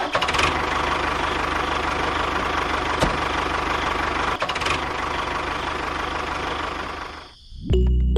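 A small motor or engine runs steadily, then stops about seven and a half seconds in.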